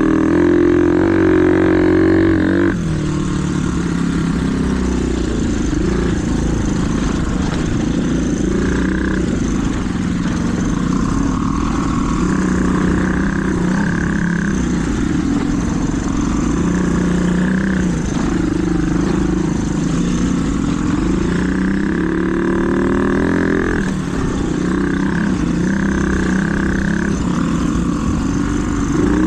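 Small mini bike engine running hard on a trail ride, its pitch rising and falling as the throttle is worked.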